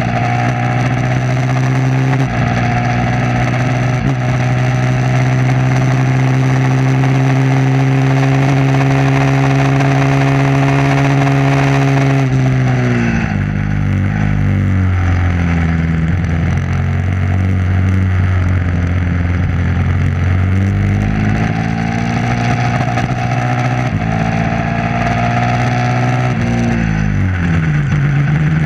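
Motorcycle engine on a race track held at high revs with its pitch slowly climbing, then dropping in steps about twelve seconds in as the rider shuts off and changes down. It runs at lower revs for several seconds, revs up again and falls away once more near the end.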